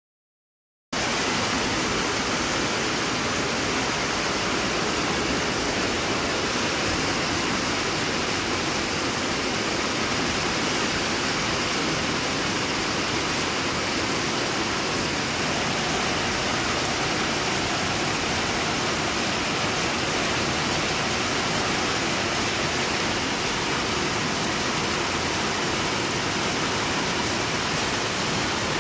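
Heavy rain pouring down in a steady, even hiss that cuts in suddenly about a second in.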